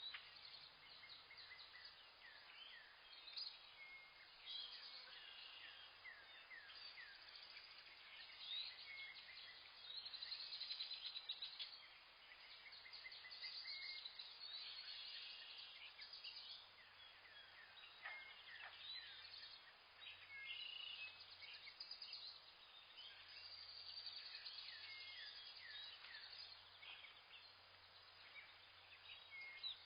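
Many small birds chirping and calling together, a dense run of short high chirps overlapping one another over a faint hiss.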